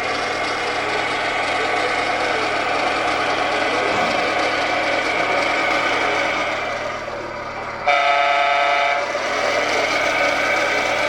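Scale RC truck sound module playing a running diesel engine, with one horn blast about a second long at around eight seconds in.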